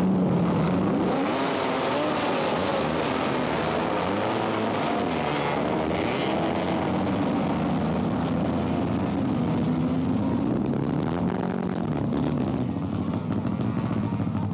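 Racing superbike motorcycle engines revving hard, their pitches rising and falling over one another as several bikes accelerate and shift through the gears.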